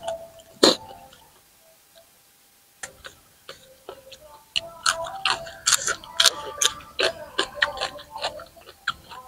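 Close-miked crunching of raw vegetables and leaves being chewed: one loud crunch just under a second in, a short lull, then a dense run of crisp crackling crunches from about halfway on.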